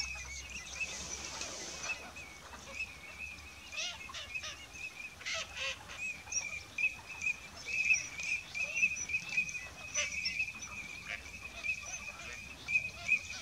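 Bird calls: a steady, high, wavering chirring with many short calls scattered over it.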